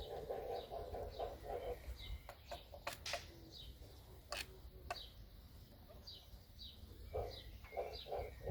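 Small birds chirping over and over in short falling notes, with a few sharp clicks near the middle. A low pulsing sound fades out about two seconds in and returns near the end.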